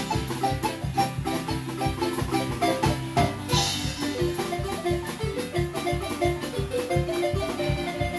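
Acoustic marimba band playing a lively tune: quick runs of struck wooden-bar notes over a steady low beat, with a bright crash about three and a half seconds in.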